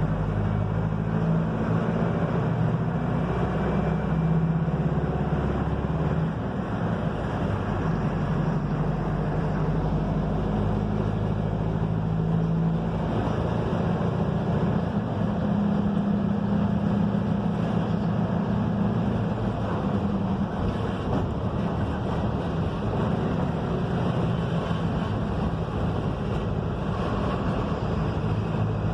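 Mercedes-Benz OF-1721 bus's diesel engine running while the bus drives along, with road and wind noise. The engine note shifts a few times as speed or gear changes.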